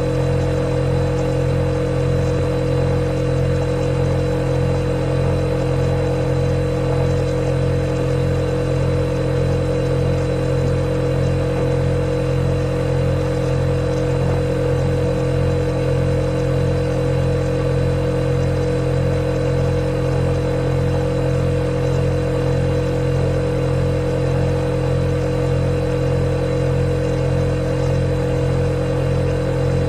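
Refrigerator compressor running with a steady, unchanging low hum and a light hiss.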